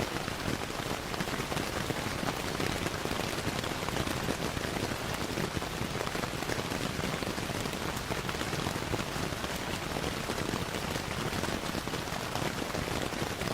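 Steady rainfall, an even, unbroken hiss, mixed with the crackling of a wood fire.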